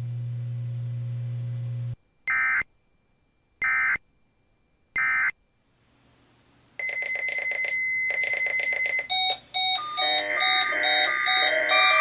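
NOAA Weather Radio closing out its required weekly test: a steady low hum, then three short SAME digital data bursts (the end-of-message code) about a second and a half apart. About two-thirds of the way in, music starts and grows louder.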